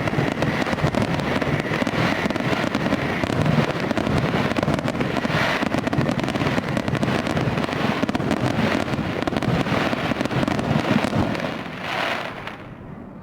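Fireworks display: a dense, continuous crackling of many bursts and pops, dying away over the last two seconds.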